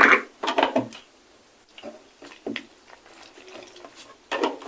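A little water poured into a small blender jar of chopped tomatoes and peppers: faint splashing with a couple of light knocks, the grinder motor off.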